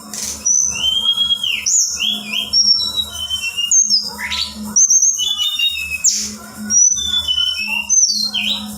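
Female tledekan, a small songbird kept in Indonesia, calling in a quick string of high, thin whistled notes and short sweeping chirps. A low hum comes and goes beneath the calls.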